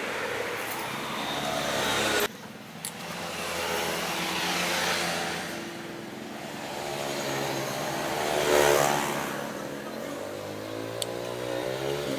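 Sewing machine being test-run, its motor speeding up and slowing down so the whine rises and falls, with a sudden break about two seconds in.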